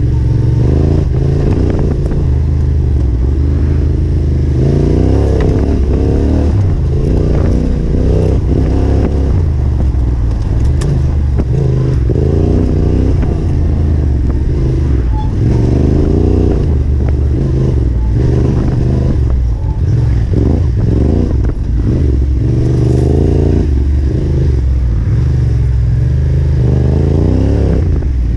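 Yamaha Ténéré 700's parallel-twin engine under way on a dirt trail, its pitch rising and falling over and over as the throttle is opened and closed.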